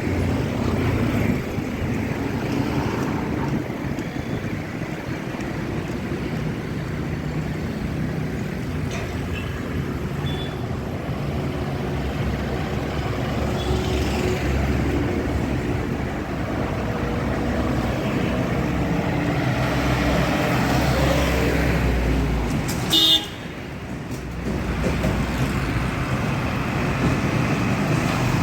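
Busy road traffic: motor vehicles running past steadily, with a short horn toot about three quarters of the way through.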